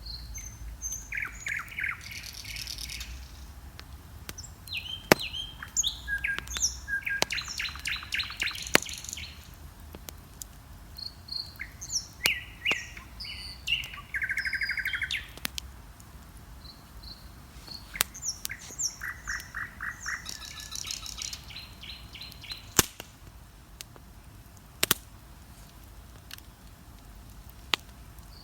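Songbirds singing at dawn in short trilled and chirping phrases, over the crackle of a wood bonfire with occasional sharp pops.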